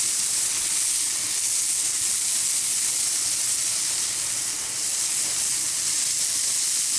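Ground-beef burger dogs sizzling steadily on a hot Blackstone flat-top griddle, an even, high-pitched frying hiss.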